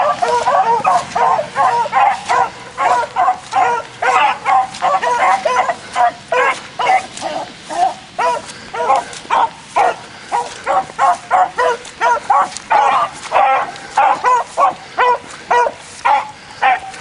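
Beagles baying on a rabbit run, a pack in full cry giving repeated short bays, two or three a second, without a break.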